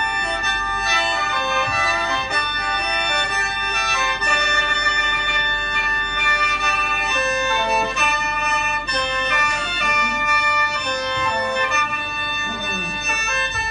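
Khaen, the Lao bamboo free-reed mouth organ, playing a melody in several notes at once over a sustained drone note.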